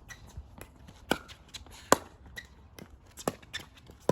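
Pickleball rally: paddles striking the hollow plastic ball with sharp pops about a second apart, with lighter taps of bounces and shoe steps on the court between them.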